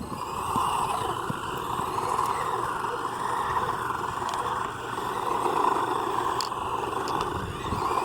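Electric motor of a Hosim S911 radio-controlled truck whining as it drives, its pitch and loudness wavering with the throttle and dipping briefly about halfway through.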